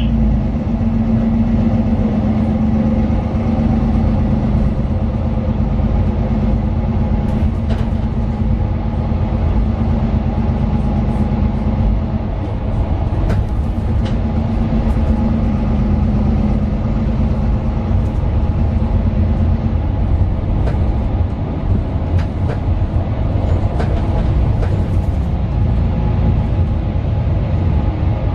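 Mercedes-Benz Citaro 2 city bus heard from inside the passenger cabin under way: its OM 936 six-cylinder diesel and ZF Ecolife automatic give a steady low drone. A steady hum rides on top and fades out about twenty seconds in, with light scattered rattles throughout.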